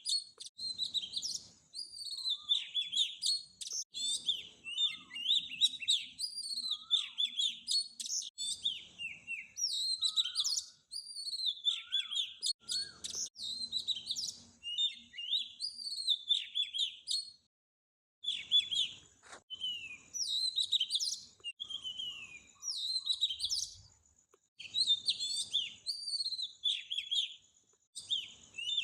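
Small birds chirping and twittering, many short high sweeping calls in quick succession, with a brief pause about two-thirds of the way through.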